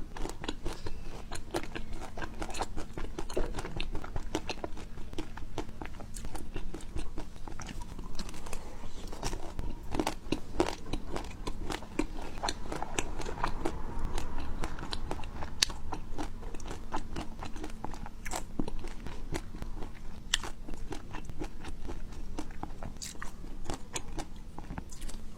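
Close-up biting and chewing: a steady run of crisp crunches and wet mouth clicks as food is eaten.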